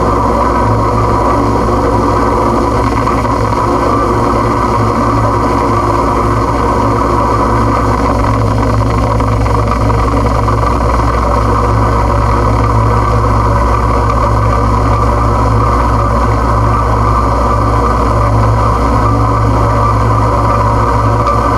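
A loud, unchanging wall of droning noise: a thick hiss with a steady low hum beneath it, with no breaks or sudden events, as in a harsh-noise or drone recording.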